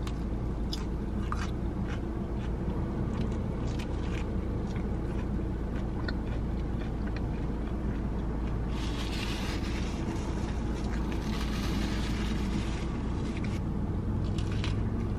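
Close-up chewing and crunching of a bacon sandwich with crunchy bacon, with small clicks of biting, over a steady low hum inside a car. A stretch of rustling comes in the middle.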